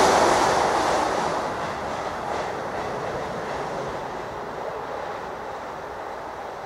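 A train running away along the track, its wheel-on-rail noise fading steadily.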